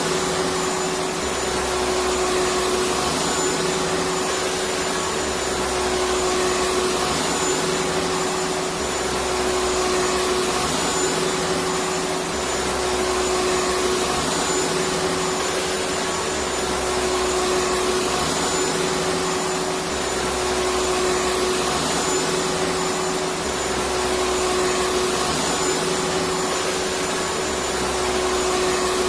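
Electric vacuum cleaner motor running steadily, a loud even rush of air with a constant whine, and a low hum that rises and falls about every three seconds.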